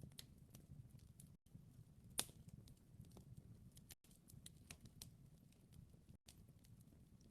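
Wood fire crackling faintly: scattered small pops and snaps over a low, steady rumble, with one sharper pop about two seconds in.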